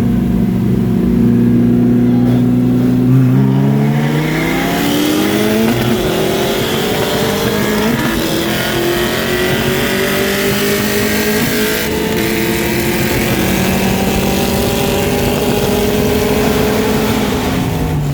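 Car engine pulled hard in a roll race: it holds a steady note, then climbs in pitch from about three seconds in as it accelerates, and drops in pitch near the end as the driver lets off.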